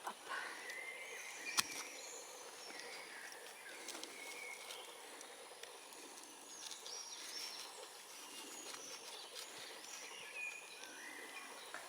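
Wild birds chirping and whistling in short, scattered calls over faint forest background noise, with one sharp click about a second and a half in.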